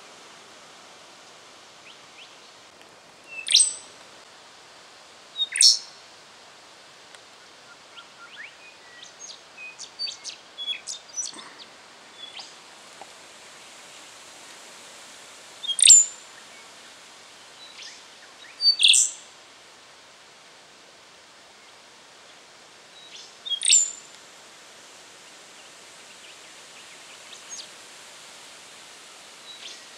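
Rufous songlark singing: five loud, short phrases of high notes spaced a few seconds apart, with a run of fainter quick chirps in between, over a steady background hiss.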